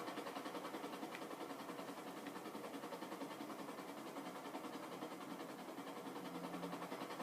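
Helicopter running with a steady mechanical drone and a fast, even flutter.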